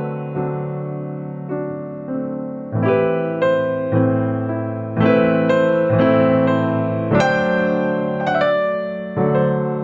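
Background music: electric piano playing slow chords, each struck and left to fade, a new chord about every second.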